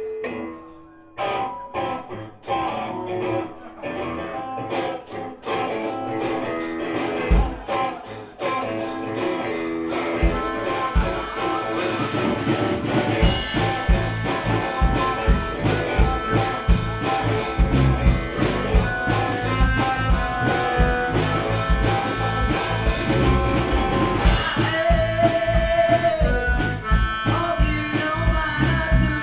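Gypsy rock band playing live with accordion, guitar, bass and drums, no singing. It starts sparse with a steady rhythmic pattern about a second in, and the full band with drums and bass comes in around ten to thirteen seconds in.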